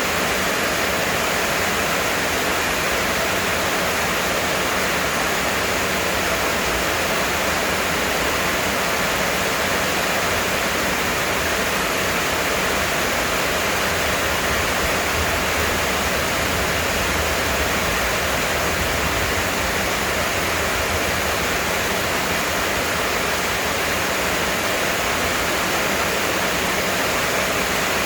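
Heavy rain pouring down steadily, an even wash of sound with no let-up.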